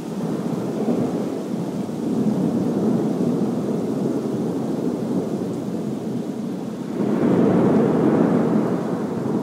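Thunder rumbling and rolling through a storm, swelling louder for a couple of seconds about seven seconds in.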